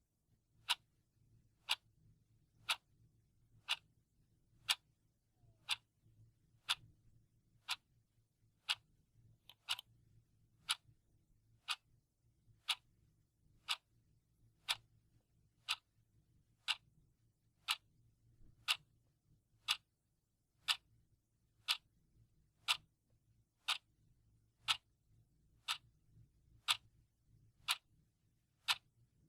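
Clock ticking at a steady one tick a second, sharp and even, marking off the seconds of a countdown timer.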